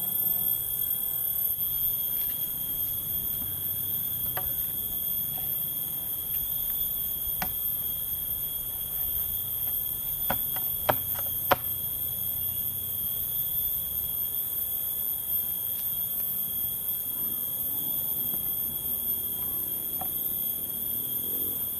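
A steady, high-pitched insect chorus ringing in the forest, with a few sharp knocks about halfway through.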